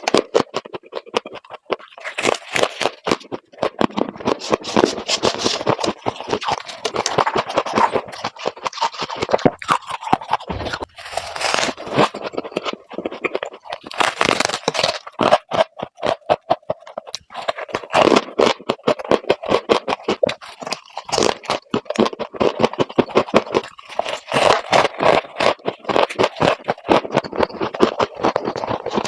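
Frost ice from a refrigerator freezer being scraped and crunched, a dense run of rapid, crisp scraping and crunching strokes in uneven clusters.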